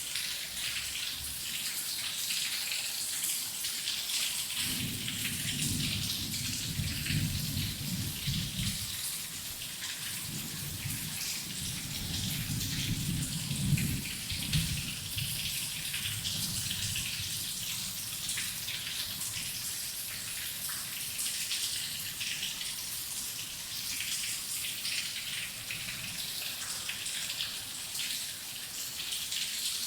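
Heavy rain falling steadily, a dense patter of drops. Low rumbles of thunder roll in about five seconds in and again from about ten to fifteen seconds, with a couple of sharper cracks near the end of the second rumble.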